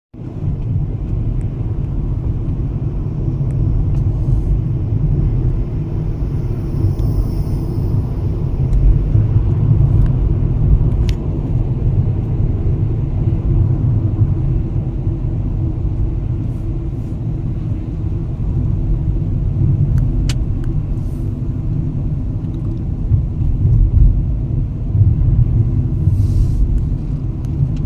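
Steady low rumble, with a few faint, brief high chirps or ticks over it.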